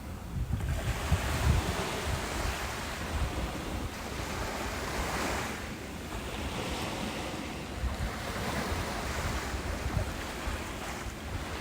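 Ocean surf on a beach, waves washing in and drawing back in slow swells, with wind buffeting the microphone in low gusts.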